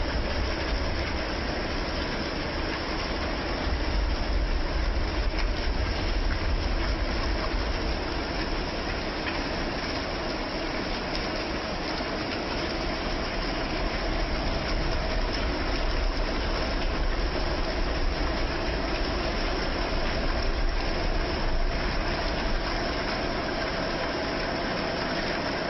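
Steady heavy rain, a dense even hiss, with a low rumble underneath.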